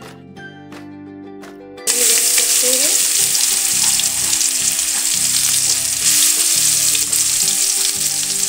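Background music, then about two seconds in a sudden loud sizzle as wet ground onion, garlic and spice paste drops into hot oil in a stainless steel kadhai, frying steadily from then on.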